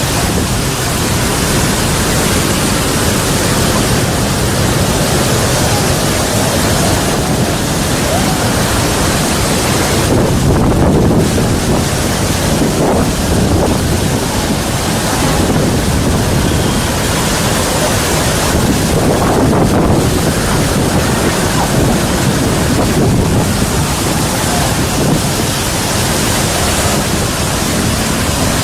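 Typhoon-force wind blowing hard, with wind buffeting the microphone: a loud, steady rushing noise that does not let up.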